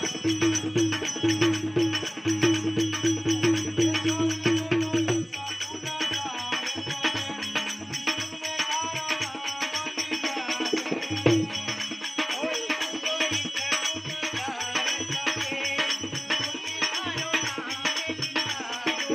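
Folk song: jingling percussion keeps a steady beat under a wavering sung melody. A pulsing low beat drops out about five seconds in.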